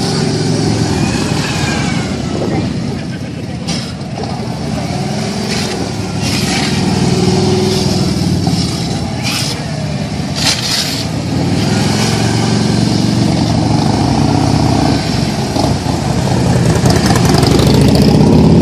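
Harley-Davidson police motorcycles' V-twin engines running at low speed, rising and falling in pitch as the riders work the throttle through tight low-speed maneuvers. The engines get louder near the end.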